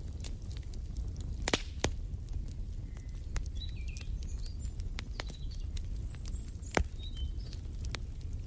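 Wood fire crackling: a steady low rumble of flames with sharp pops, the loudest near the end. Faint short bird chirps come and go in the middle.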